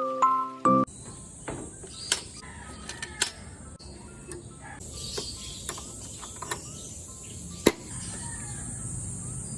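A short chiming jingle ends, then light taps and clicks of small objects being handled on a sewing machine, with one sharp click near the end, over a steady high hiss and faint chirps.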